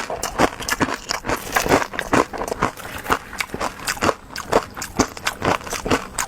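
Close-miked eating sounds: rapid, irregular wet chewing and mouth smacks, several short clicks a second.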